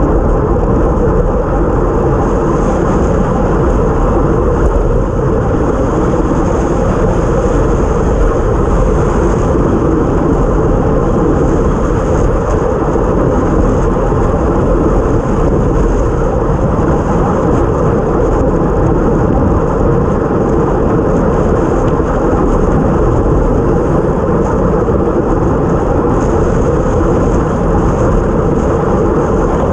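Steady rush of wind over the microphone with tyre hiss on a wet road, from a time-trial bicycle ridden at racing speed.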